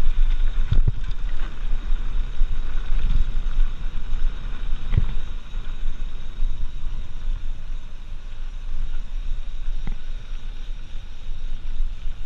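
Wind buffeting the microphone during a mountain-bike ride, a steady low rumble with a few sharp knocks from the bike, about a second in, near the middle and near the end.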